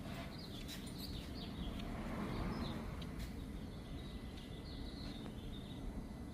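Birds chirping over a low, steady background rumble.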